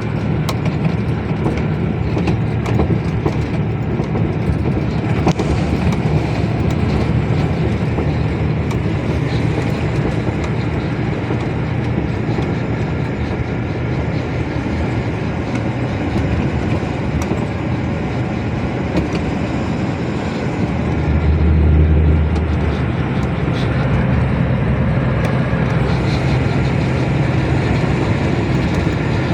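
Heavy truck on the move: steady engine and road noise, with the engine's low note swelling louder for a couple of seconds about three-quarters of the way through.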